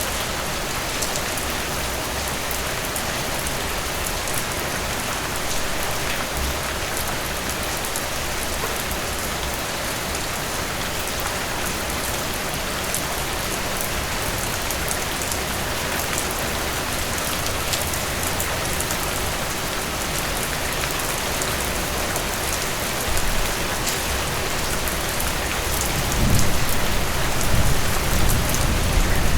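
Heavy rain falling steadily as a dense, even hiss. A low rumble of thunder comes in about three-quarters of the way through and grows louder near the end.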